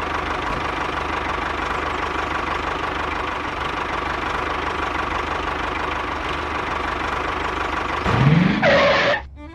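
Small engine of a homemade mini tractor running steadily, with a faint constant whine. Near the end a louder sound rises in pitch for about a second, then cuts off abruptly.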